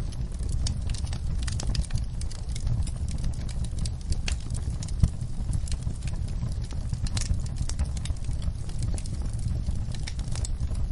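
Fire in a fireplace crackling, with constant irregular pops and snaps over a steady low rumble; one louder pop about five seconds in.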